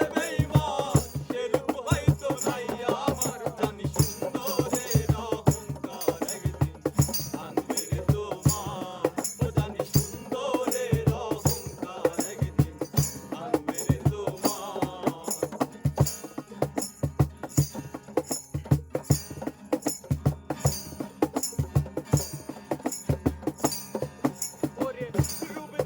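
Instrumental break in a Bengali folk song: a drum keeps a steady beat under jingling rattles, while a wavering melody line plays over roughly the first two-thirds and then drops out, leaving the percussion.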